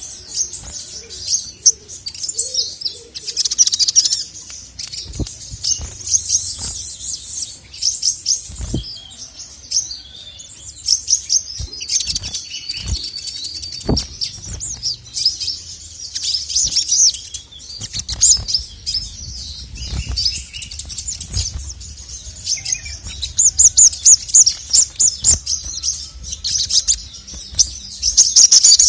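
Male sogon (ruby-cheeked sunbird) singing a rapid, high-pitched chattering song in repeated bursts, busiest near the end. A few short low thumps are mixed in.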